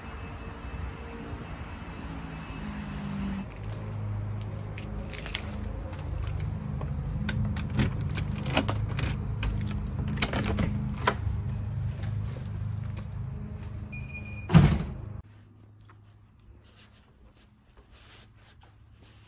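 A steady low vehicle hum with many sharp clicks and jangling, then one loud thunk like a door shutting about fifteen seconds in, after which only a quiet low hum remains.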